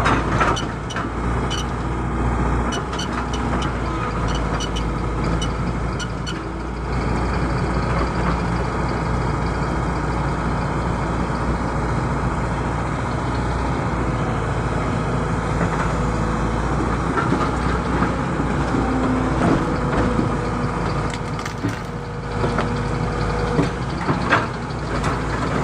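Excavator engine running steadily under work while its bucket crushes and breaks wood, with repeated cracks and knocks of splintering timber.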